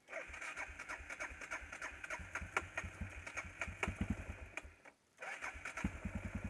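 Motorcycle's electric starter cranking the engine for about four and a half seconds without it firing, then stopping briefly. A second crank follows, and the engine catches near the end, settling into an even run of idle pulses.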